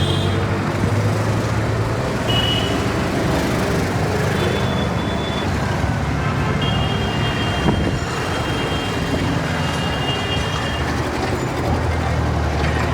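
Busy Indian street traffic: a steady mix of engines running and tyre noise, with vehicle horns sounding several times, one held for about four seconds in the middle.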